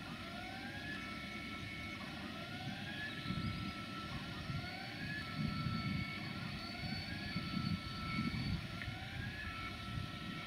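Railway machinery running with a low rumble. Over it, a tone repeatedly glides upward and then holds steady, about once every second or two.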